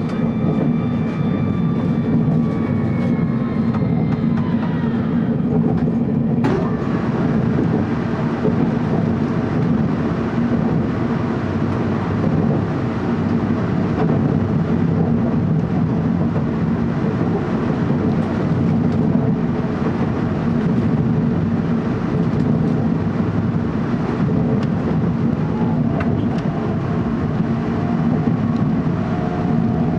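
Steady running noise inside a TEMU2000 Puyuma express electric train car at speed: a dense low rumble of wheels on rail. A faint high whine drifts slightly down in pitch over the first five seconds.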